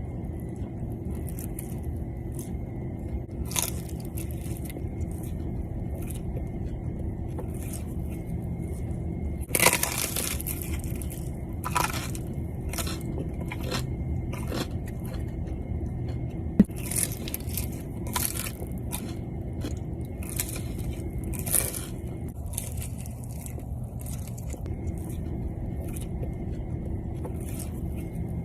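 Close-miked pizza eating: bites into crispy crust give short sharp crunches and crackles at irregular moments, the loudest about ten seconds in, with chewing between them over a steady low hum.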